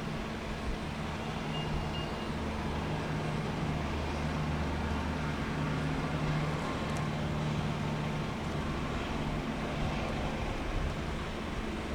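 Steady low engine rumble with a constant hum and hiss, swelling slightly toward the middle.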